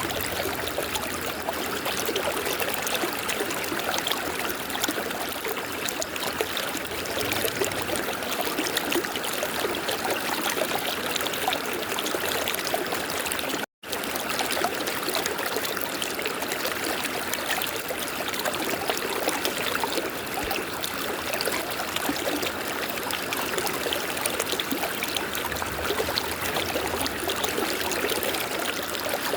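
River water flowing with a steady rush, cut off for an instant about halfway through.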